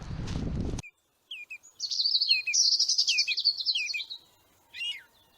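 A songbird singing one fast, warbling, trilling phrase of about two and a half seconds, followed by a single short call. Under a second in, a loud rushing noise cuts off abruptly.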